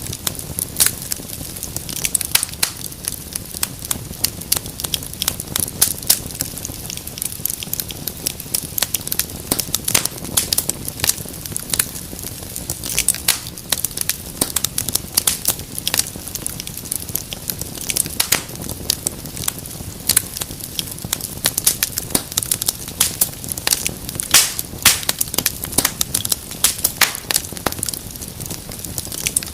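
Wood fire crackling in a fireplace: many sharp irregular pops and snaps over a low steady rumble of burning.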